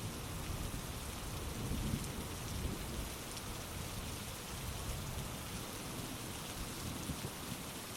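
Heavy rain falling steadily, with a low rolling rumble of thunder that is strongest in the first couple of seconds and then eases off.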